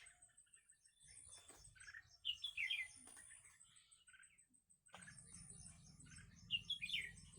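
A small bird singing the same short phrase of quick chirps twice, about four seconds apart, over a faint high, steady trill.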